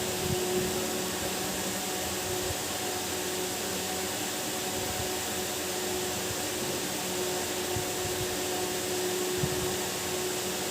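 Steady whirring noise with a faint low hum, like a running fan or small motor, unchanging throughout, with a few faint clicks.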